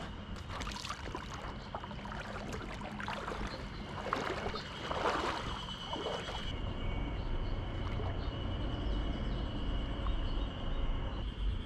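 Lake water sloshing and splashing at the shallows' edge, irregular for about six seconds, then settling into a steadier low rumble. A faint steady high insect drone runs underneath.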